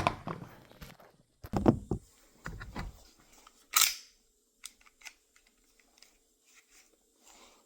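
Close handling noise: a few knocks and rubs in the first three seconds, a short sharp scrape about four seconds in, then scattered faint clicks.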